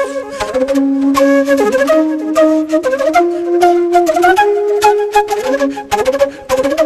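Background music led by a flute playing a melody of held notes that steps upward through the middle, with sharp percussive taps behind it.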